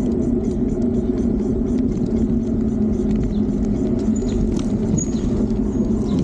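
Steady wind rumble on the microphone, mixed with tyre and road noise, while riding an electric bike. A few faint clicks and two brief high chirps come through in the second half.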